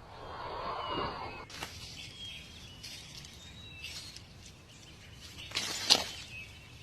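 Small birds chirping outdoors in short repeated calls, with a rustle of noise early on and a sudden loud scuffle-like burst of noise about six seconds in.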